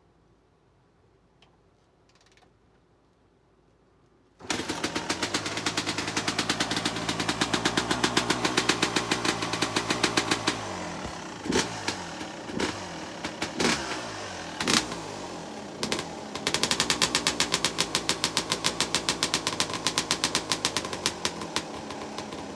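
Suzuki RM250's single-cylinder two-stroke engine cold-started on the choke: quiet for about four seconds, then it fires abruptly and runs at a fast, rattling high idle. Its revs sag and it spits a string of loud pops partway through before settling back to a steady fast idle.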